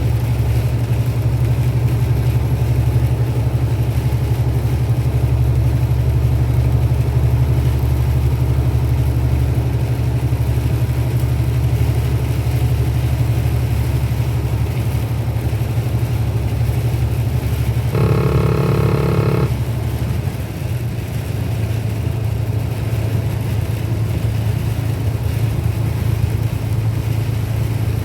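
Truck engine and road noise: a steady low drone while driving. Near two-thirds of the way through, a steady pitched tone sounds once for about a second and a half.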